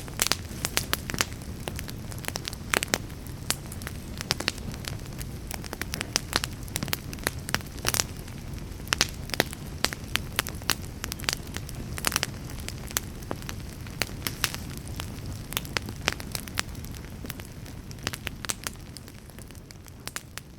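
Wood fire in a fireplace crackling and popping: a steady low rush of flame with many sharp, irregular pops of burning wood, beginning to fade out near the end.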